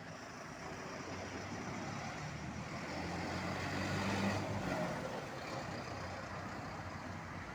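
Truck engine running as it passes, growing louder to a peak about four seconds in, then fading a little.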